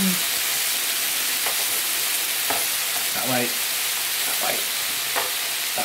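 Scallops and prawns sizzling steadily on an electric teppanyaki flat-grill hotplate as tongs turn the scallops over.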